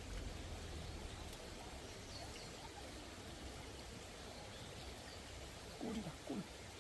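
Faint steady rushing of a valley stream, with two short downward-gliding calls about six seconds in.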